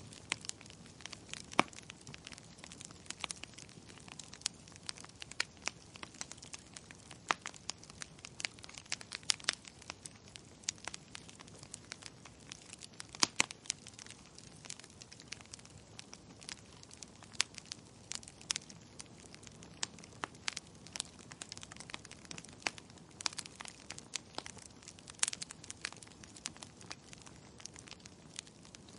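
Wood fire crackling in a fireplace: irregular sharp pops and snaps, several a second and some louder than others, over a faint steady hiss.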